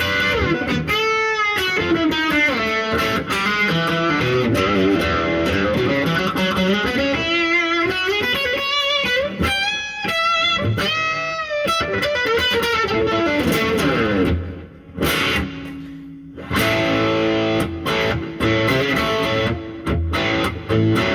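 Electric guitar played through a 1964 Epiphone Pacemaker 10-watt tube amp: sustained single-note lines with bends and vibrato, a short break a bit past the middle, then held chords.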